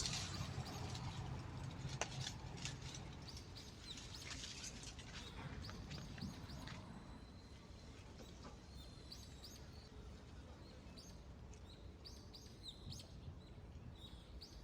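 Small birds chirping and twittering, many short quick calls throughout, more of them in the second half. Scattered clicks and rustles in the first half or so.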